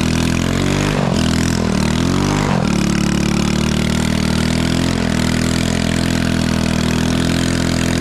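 Small Chinese 110cc ATV's single-cylinder four-stroke engine under throttle. The engine speed dips and climbs back three times in the first few seconds, like gear changes while pulling away, then holds steady.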